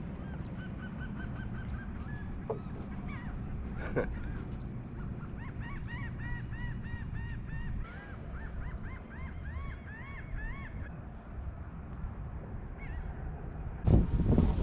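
Birds calling in long runs of short, quick notes that rise and fall, over a low steady rumble. A brief knock comes about four seconds in, and a louder bump near the end.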